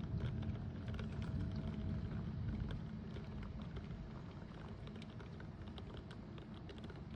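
Rain falling steadily, with scattered drops ticking, now that the hail has stopped. It eases a little over the first few seconds.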